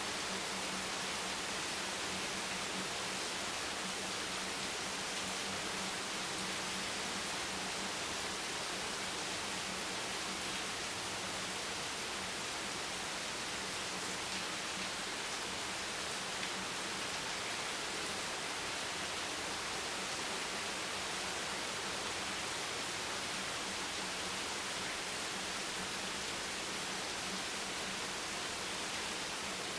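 Steady heavy rain: a dense, even hiss with no single drops or gusts standing out, and a faint low steady hum underneath.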